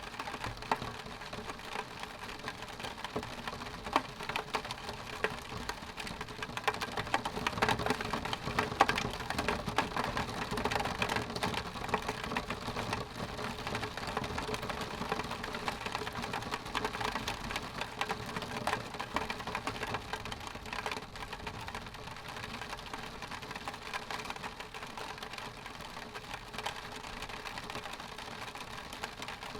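Rain falling on a window pane: a steady wash with a dense scatter of sharp drop ticks on the glass, heaviest about a quarter to a third of the way in and easing off towards the end.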